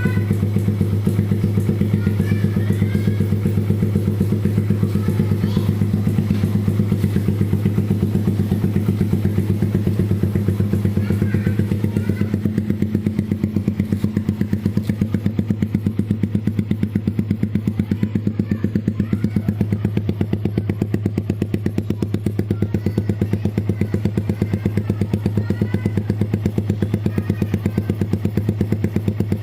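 Suzuki Satria F150 motorcycle's single-cylinder four-stroke engine idling steadily through an RCB GP16 aftermarket racing exhaust, with a deep, even pulsing beat.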